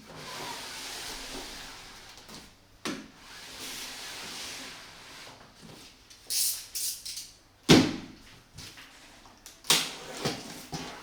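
A 30 mm compound fireworks cake firing: stretches of hissing, then several sharp bangs, the loudest a little past the middle.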